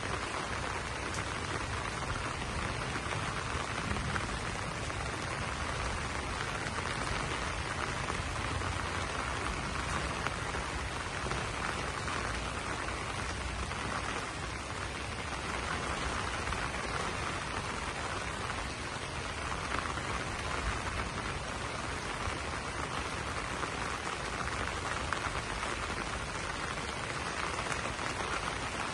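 Steady rain falling on broad banana leaves, an even, unbroken wash of drops.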